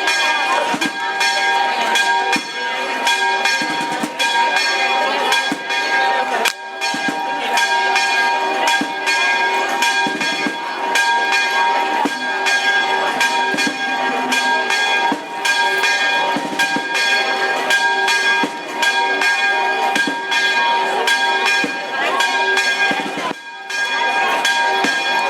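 Church bells ringing continuously, struck rapidly so that their tones keep sounding, with brief breaks twice.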